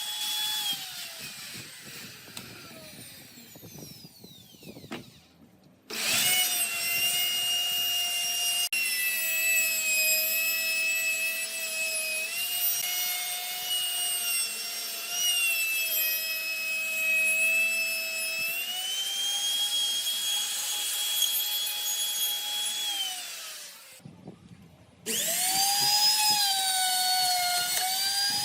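A high-speed electric power tool working wood: its motor runs with a steady high whine whose pitch sags a little under load while cutting. It winds down as it is switched off twice, once in the first few seconds and again about 23 seconds in, and spins back up near the end.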